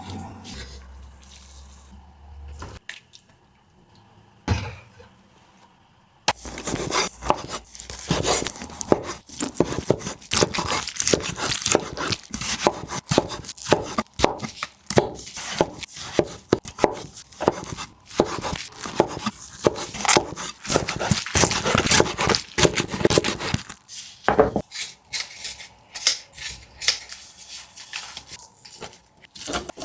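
Kitchen food preparation: a dense, irregular run of sharp knocks and clatter from utensils on a board or dish, starting about six seconds in and thinning to scattered knocks near the end.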